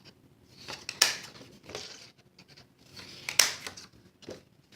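Cardstock being handled at a craft table, rustling and crinkling, with two louder crisp strokes: one about a second in and one a little past three seconds.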